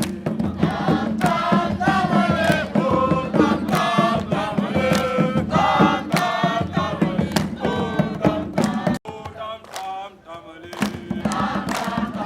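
A crowd singing and chanting together over a steady drum beat. It breaks off abruptly about nine seconds in and comes back quieter.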